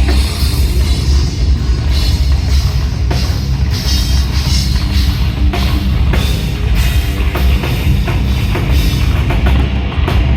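Live rock band playing loudly, with a pounding drum kit and heavy bass.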